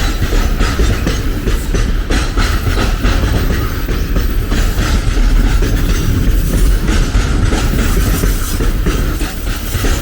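A train passing close by: a steady deep rumble with the repeated clickety-clack of wheels going over rail joints, holding steady throughout.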